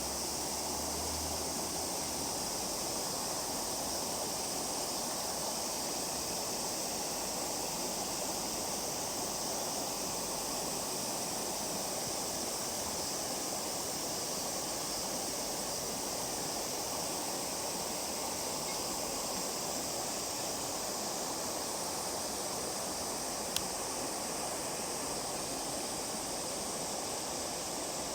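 River water flowing in a steady rush, with a single sharp click near the end.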